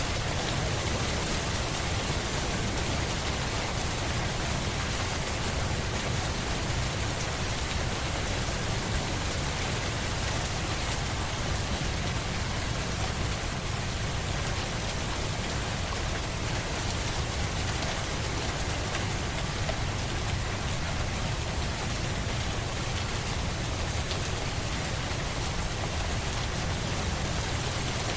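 Steady rain: an even, unbroken hiss of falling rain with a deep low rumble beneath it.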